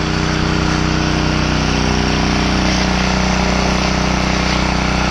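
Gas-engine pressure washer running steadily, with the hiss of its spray as a bleach mix is shot through the nozzle tip onto vinyl siding.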